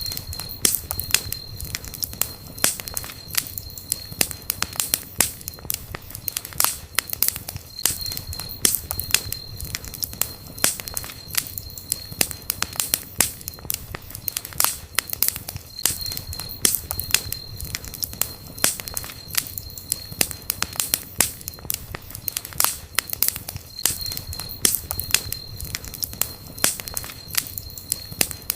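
Wood fire burning, with dense, irregular crackling and popping over a low rumble of flame. A thin high whistle comes and goes.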